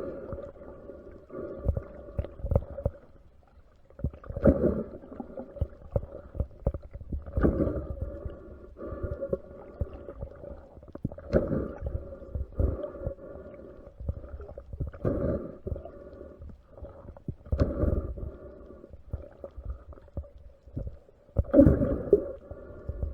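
Underwater sound picked up by a diver's camera: surges of water movement every few seconds over a steady hum.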